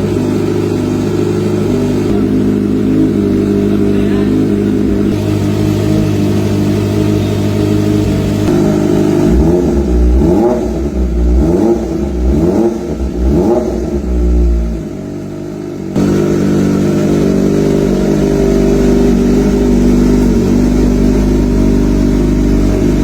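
Kawasaki Ninja ZX-25R's inline-four engine, breathing through an Arrow Pro Race titanium slip-on exhaust, running steadily. Partway through it is blipped up and down in about four quick revs, then settles back to a steady run.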